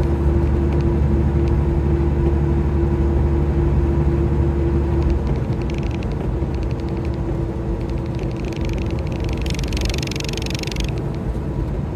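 Semi truck's diesel engine running with a steady low drone that eases off about five seconds in, as if the throttle is let up. A short hiss sounds near the end.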